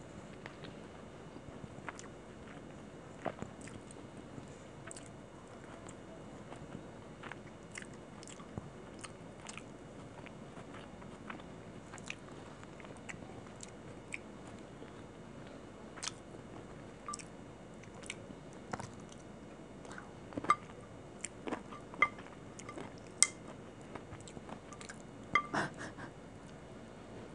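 Close-miked chewing and wet mouth clicks of someone eating chicken kosha and rice by hand. Short sharp clicks are scattered throughout, and louder clicks and crunches bunch together in the last several seconds.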